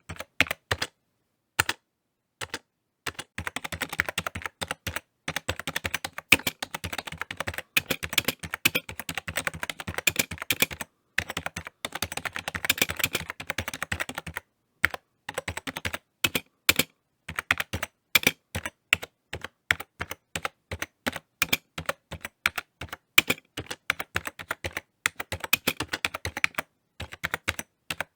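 Typing on a computer keyboard: quick irregular key clicks with short pauses, including a few louder single strokes.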